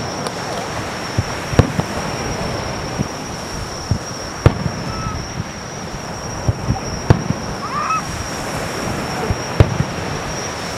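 Aerial firework shells bursting in the sky: a loud bang about every two to three seconds, with fainter pops between, over a steady background hiss and a thin steady high tone.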